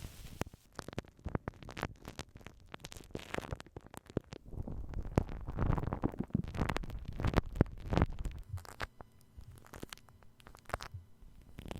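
Tools or materials rubbing and scratching directly on a binaural microphone, in ear-cleaning style, with many sharp crackles and clicks. A denser stretch of rubbing with a low rumble comes in the middle.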